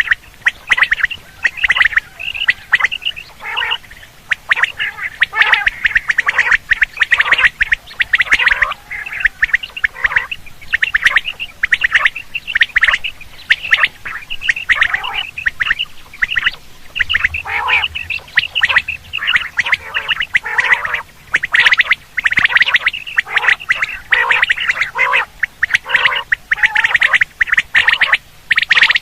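Quail calls played as a hunting lure: a dense, unbroken run of short, sharp, loud notes repeated rapidly, with brief gaps between bouts.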